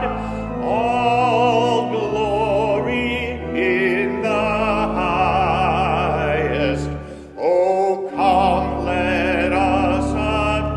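Classical-style singing with heavy vibrato over sustained instrumental accompaniment, with a brief lull about seven seconds in.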